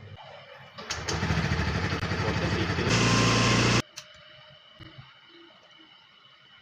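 Scooter engine running loudly for about three seconds, pulsing at first and then steadier and louder, before it cuts off suddenly.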